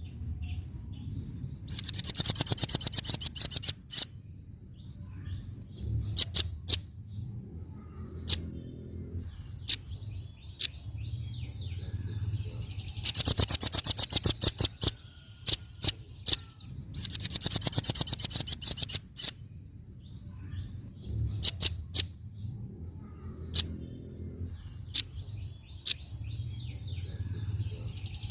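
Velvet-fronted nuthatch calling: fast trills of sharp, high notes, each run about two seconds long and given three times, with single sharp notes between the runs.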